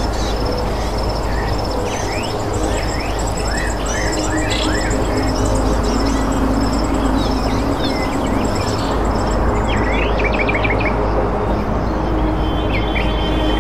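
Small birds chirping and twittering in quick repeated high notes, over a soft ambient music track of sustained low notes.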